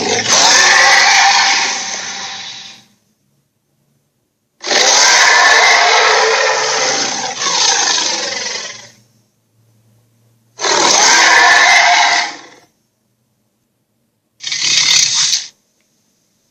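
Sound-effect roars of the kaiju Slattern: four harsh, loud roars separated by silence. The first lasts about three seconds, the second is the longest with a fresh surge partway through, the third is about two seconds, and the last, near the end, is a short one-second roar.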